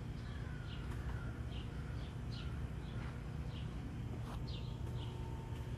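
Birds chirping: short, high calls every half second or so, with a faint drawn-out falling whistle early on, over a steady low background rumble.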